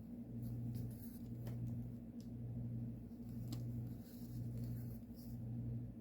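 Needle and floss drawn through cross-stitch fabric, a few faint scratchy ticks and swishes, over a low hum that swells and fades about once a second.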